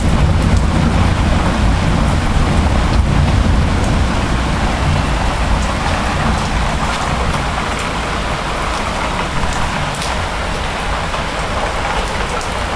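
Heavy rain pouring down in a steady, loud downpour, with a deep low rumble underneath.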